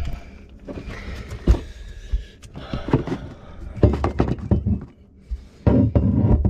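A series of knocks, clinks and thunks as a glass vase is bumped and moved about among other things in an under-sink cabinet, with heavier bumps about four seconds in and near the end.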